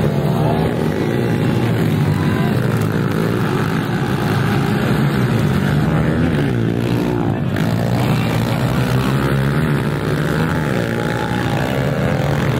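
Several pit bike engines running and revving together as the pack races, their pitches rising and falling over one another in a steady drone.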